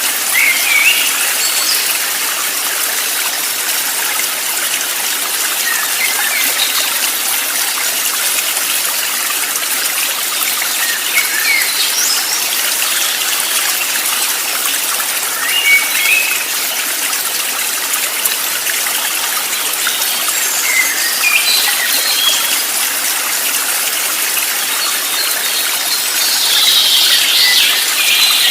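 A stream running steadily, with short high bird chirps now and then and a busier burst of chirping near the end.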